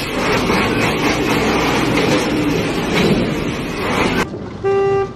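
Steady road and traffic noise from a vehicle on the move, cut off abruptly about four seconds in, followed by one short car horn blast near the end.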